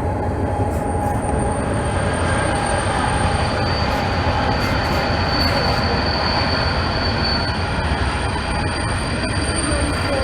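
Short freight train of hopper wagons rolling past, a steady loud rumble of wheels on rail with high, thin wheel squeal held throughout.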